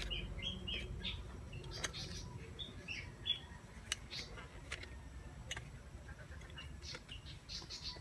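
Small birds chirping in short, quick calls that come in clusters, with a few sharp crackles from leather being flexed in the hands. A low rumble fades out about a second in.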